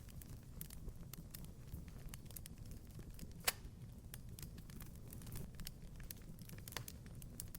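Wood fire crackling in a fireplace: a steady low rumble of flames with scattered sharp pops and snaps, one louder pop about halfway through.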